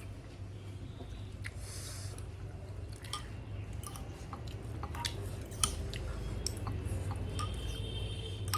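Close-up chewing and eating sounds with many short, sharp clicks scattered throughout, over a steady low hum.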